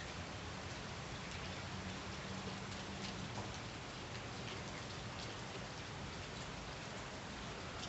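Steady rain falling on flooded pavement and grass, a dense patter of drops splashing into standing puddles.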